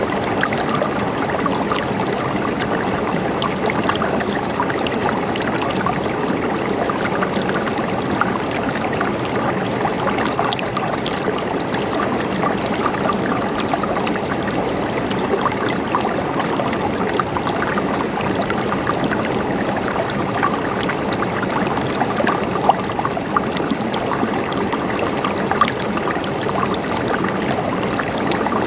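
Stream of water running and trickling steadily, with small splashes throughout.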